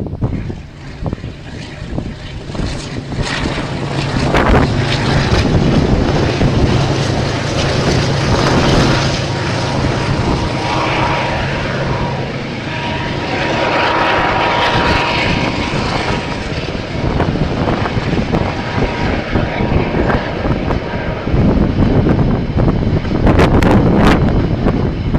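KiwiRail diesel train passing close by: a steady low locomotive engine drone over the first half, then the continuous clatter and rumble of wheels on the rails.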